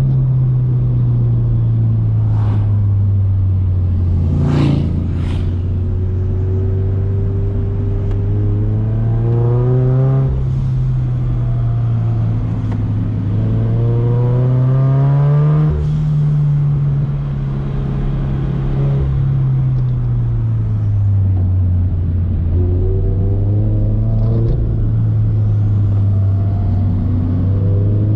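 Turbocharged Scion FR-S's flat-four engine running under load, its revs climbing and falling several times, with the biggest climbs about ten, fifteen and twenty-seven seconds in.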